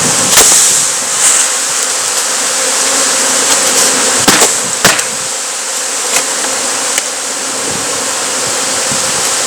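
Honey bee swarm buzzing steadily, with several sharp knocks as the bees are tapped down into the box so it can be covered.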